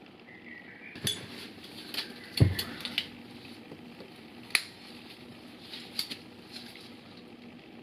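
Scattered metallic clinks and knocks of tools and parts being handled, about eight separate strikes, the loudest a dull thump a little over two seconds in.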